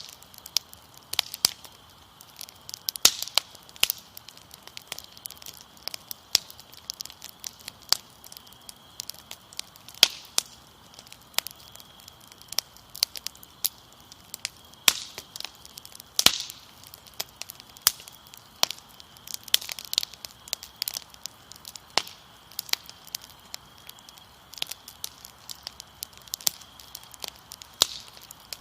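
Fire crackling, with irregular sharp pops scattered throughout, over a steady high-pitched cricket trill.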